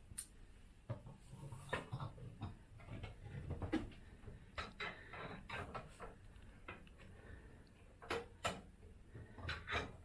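Light, irregular metal knocks and clinks as a cast iron attic skylight and its latch bar are handled and fitted.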